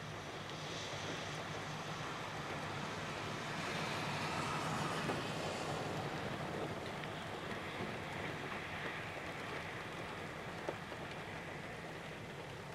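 Diesel locomotive rolling by with a steady low engine rumble under a rushing noise of wheels on track; the rush swells about four seconds in, then eases.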